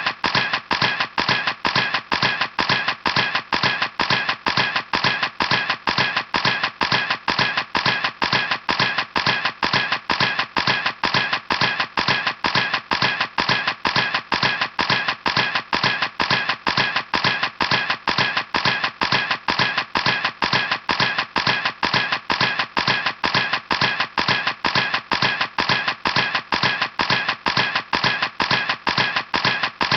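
Camera shutter clicking over and over at a fixed, machine-regular rate of about three clicks a second, each click the same.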